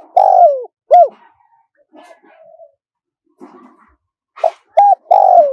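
Spotted dove cooing: a phrase of short coos and one long coo that falls in pitch, then the phrase starts again near the end.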